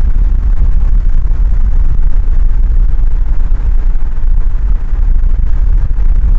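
A car on the move: a steady, loud, low rumble of engine, road and wind noise, with no clear engine note standing out.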